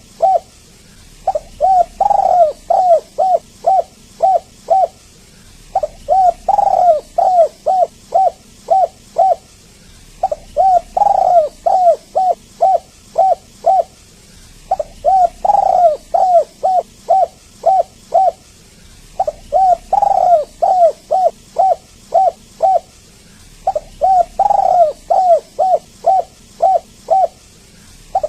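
Spotted dove cooing in repeated phrases. Each phrase is a quick run of about ten short coos, the first few loudest, and the phrases repeat every four to five seconds.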